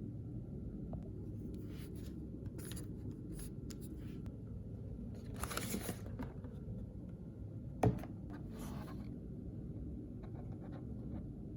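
Hands quietly handling toy packaging: soft paper and plastic rustles and scattered small ticks, with one sharp tap about eight seconds in, over steady low room noise.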